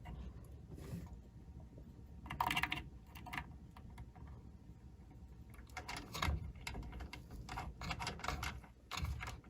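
Typing on a computer keyboard: irregular key clicks, with a loud cluster about two and a half seconds in and a run of keystrokes from about six to nine seconds in.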